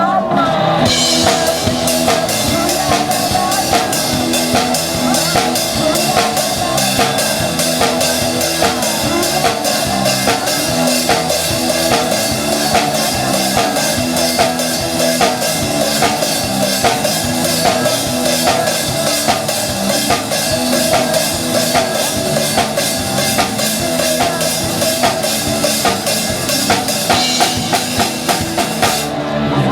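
Live band playing an instrumental passage, the drum kit keeping a steady beat with kick and snare under bass and other instruments.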